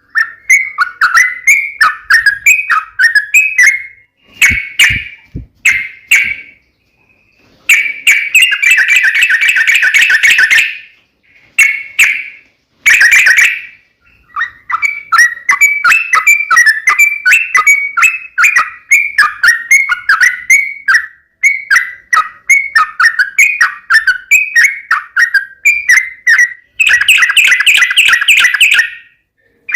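Yellow-vented bulbul (trucukan) calling: runs of short, bubbly chirping notes, broken by dense, rapid chattering bursts about 8, 13 and 27 seconds in. A few low knocks come between about 4 and 6 seconds in.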